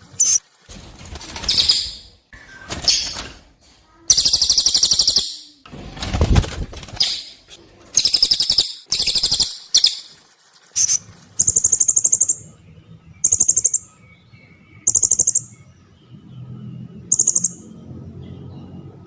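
Recorded calls of a cililin and a serindit (blue-crowned hanging parrot): sharp, high-pitched chirping trills repeated in bursts of about a second, with short pauses between. In the second half they settle into short trills, evenly spaced.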